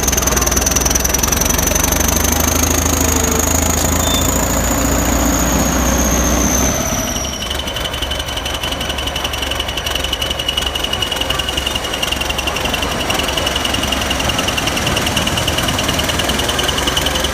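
Heavy machinery running, its engine a steady low drone under a high wavering whine. About seven seconds in, the sound changes abruptly to a different steady machine noise with a thin tone and a fast, fine ticking.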